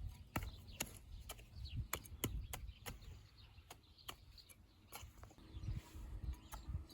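Irregular sharp clicks or taps, a few a second, over a low rumble, with a faint steady hum near the end.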